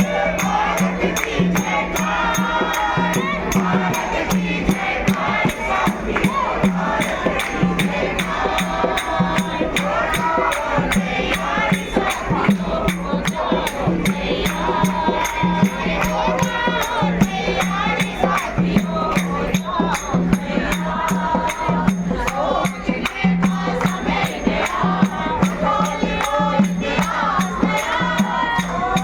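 Group of voices singing a devotional kirtan chant, with jingling hand percussion keeping a fast, steady beat.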